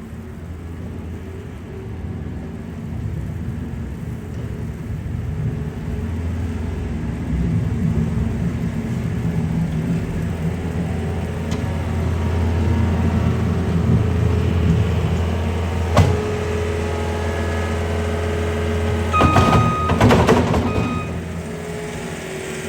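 Downtown street traffic: a steady low rumble of vehicles passing that builds toward the middle. About two-thirds through there is one sharp knock, and near the end a short burst of clattering with high steady tones.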